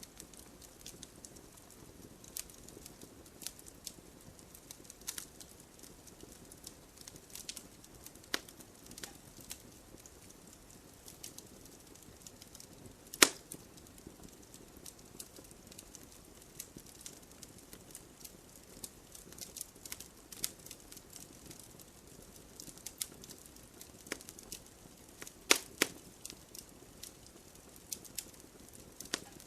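Wood fire crackling: a low steady hiss dotted with irregular sharp pops and snaps, the loudest a single pop about halfway through and a quick pair near the end.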